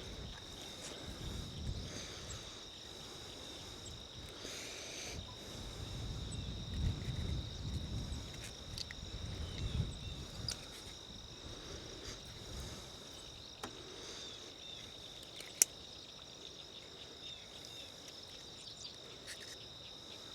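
Insects chirring in a steady, high, even tone, with low rustling handling noise for several seconds in the middle and one sharp click about fifteen seconds in.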